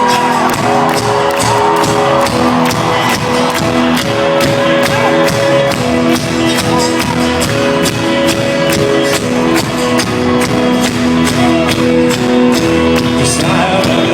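Live folk-rock band playing an instrumental passage: held chords over a steady beat of about four strikes a second, with no vocals.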